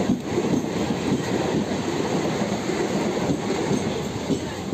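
Mumbai suburban local electric train pulling in along the platform close by: a loud, steady rumble of its wheels on the rails that eases slightly toward the end.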